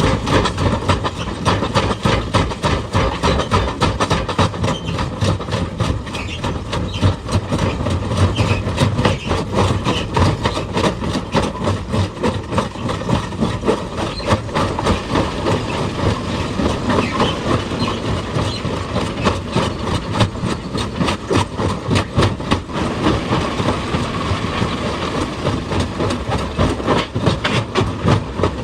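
Excavator-mounted hydraulic rock breaker hammering stone in rapid, steady blows, with the machine's diesel engine running underneath.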